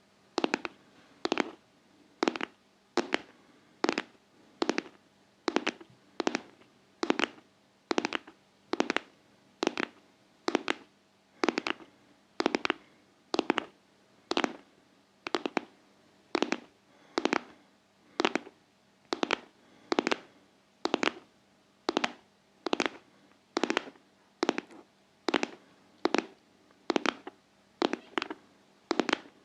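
ASMR heart-tapping: steady, rhythmic tapping on a hard surface, roughly one and a half sharp taps a second, some falling close together in pairs like a heartbeat.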